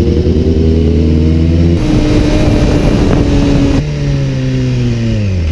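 Sport motorcycle engine running loud, its note changing abruptly twice, then falling in pitch as the bike slows near the end.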